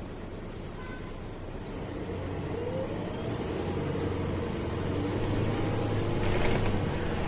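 MAN A21 city bus running, heard from inside: engine and road noise build steadily as the bus gathers speed. A short hiss comes about six and a half seconds in.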